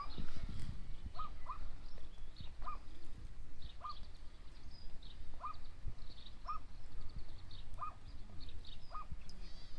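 Birds calling, with a short call repeated about once a second and fainter high chirps in between, over a low rumble.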